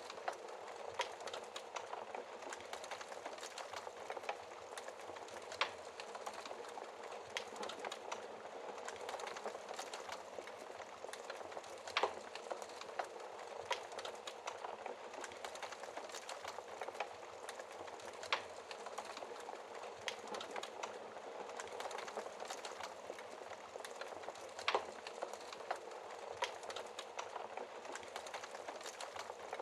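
Wood fire burning in a fireplace: a steady soft rush of flames with constant small crackles and a few sharper, louder pops of the burning logs, spaced several seconds apart.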